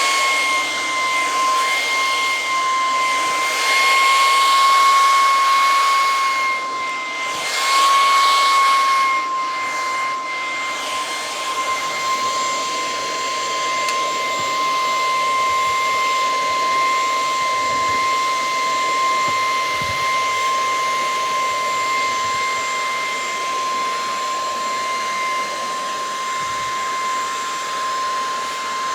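Lupe Pure cordless stick vacuum running, its motor giving a steady high whine over a rush of suction air. The air rush and whine swell a few times in the first ten seconds, then hold steady.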